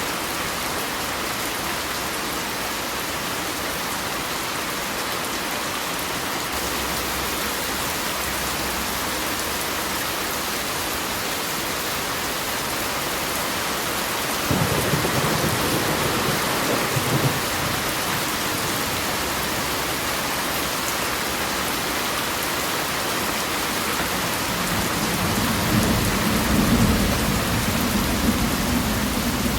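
Steady heavy rainfall with thunder: a sudden low rumble about halfway through lasting a few seconds, and a longer rolling rumble near the end.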